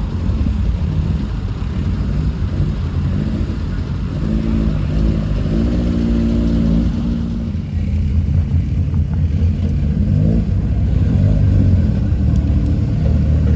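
Car engine running with a deep, steady rumble; it revs, rising and falling in pitch, about halfway through, and again briefly near the end.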